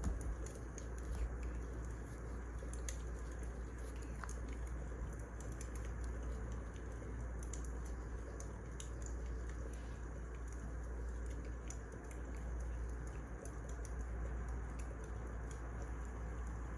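Wood fire crackling: irregular small pops and snaps over a steady low rumble of burning logs.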